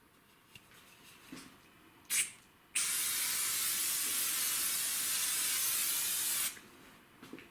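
Aerosol degreaser sprayed onto the cylinder block's surface: a short hissing burst about two seconds in, then a steady spray for nearly four seconds.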